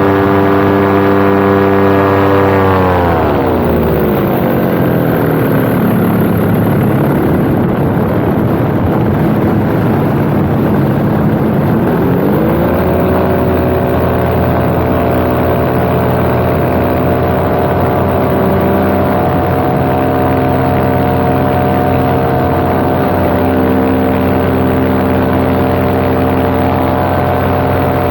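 Paramotor engine and propeller running steadily, then throttled back about two seconds in so the pitch drops, held low for several seconds, and throttled up again at about twelve seconds to a steady cruise. A constant rush of wind on the microphone lies under the engine.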